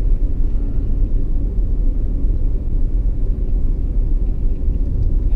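Steady low rumble of a truck driving on a snowy road, engine and tyre noise heard inside the cab.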